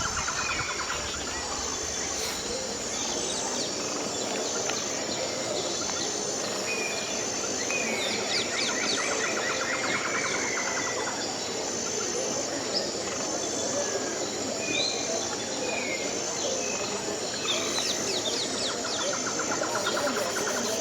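Wild birds calling: short whistled notes and rapid trills, with a longer trill about eight seconds in and again near the end. A steady high insect chirping pulses about once a second underneath.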